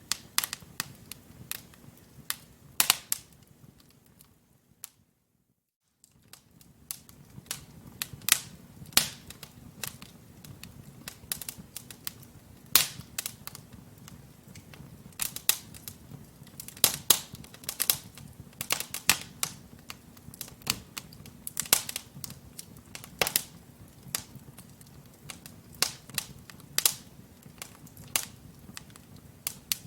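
Wood logs burning in a fireplace, crackling with irregular sharp pops and snaps over a low steady rumble of the flames. The sound fades away about four seconds in, cuts out to silence for a second or so, then comes back.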